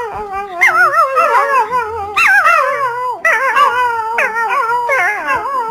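A dog howling in several long, wavering calls that slide downward in pitch, one after another. Faint backing music with low notes plays underneath.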